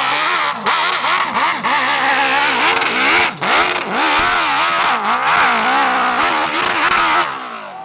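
Hill-climb motorcycle engine revving hard, its pitch swinging up and down again and again as the throttle is worked, with a few brief breaks, then dropping away suddenly near the end.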